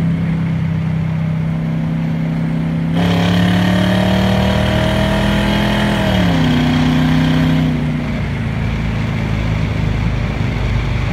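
1934 Chevrolet coupe's engine and exhaust running while driving. The engine note gets louder and climbs under throttle from about three seconds in, drops in pitch around six seconds, and eases back near eight seconds.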